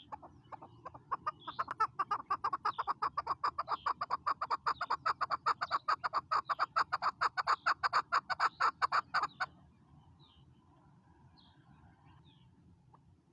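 Chukar partridge calling: a long, rapid run of clucking notes, several a second, that grows louder and stops suddenly about nine and a half seconds in, followed by a few faint chirps.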